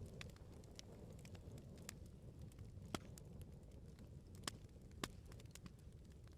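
Wood bonfire crackling: a low, steady rumble of burning flames with many small snaps and three louder sharp pops, about three, four and a half, and five seconds in.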